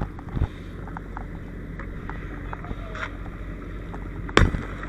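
Steady low engine rumble, with a sharp loud knock about half a second in and another near the end, and a few fainter clicks between.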